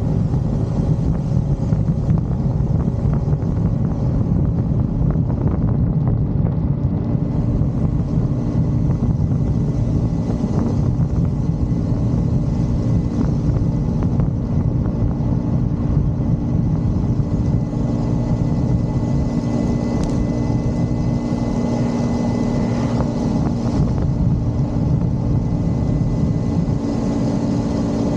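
Motorcycle engine running at a steady cruise with a low rumble and rushing noise, its pitch holding level through most of the ride.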